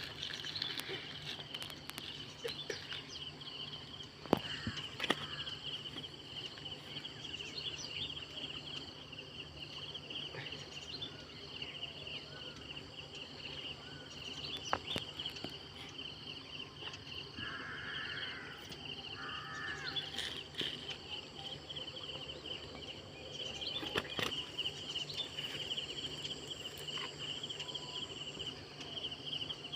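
Insects, crickets or the like, chirring steadily in one high, even band, with scattered sharp knocks and clicks, the loudest about four seconds in.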